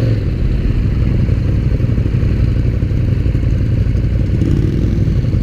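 Motorcycle engine running steadily while riding, with no revving or gear changes.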